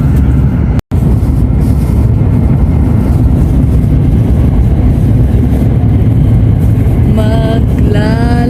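Steady, loud low rumble of a Shinkansen bullet train running at speed, heard from inside, cut off for an instant about a second in. Near the end a sung melody begins over it.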